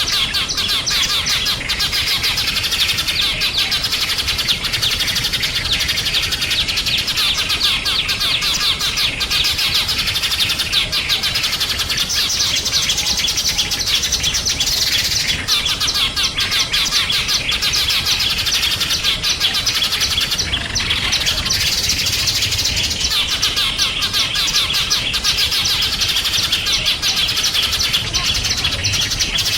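Many small songbirds chirping together in a dense, continuous chorus of rapid, high, overlapping chirps.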